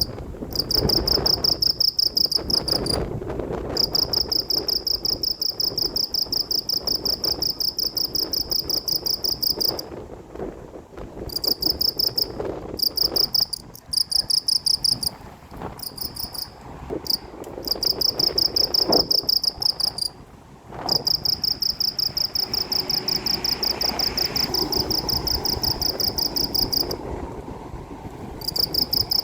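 Cricket trilling: a rapid, high-pitched pulsing call in bouts of one to several seconds separated by brief pauses, over a steady low rumble.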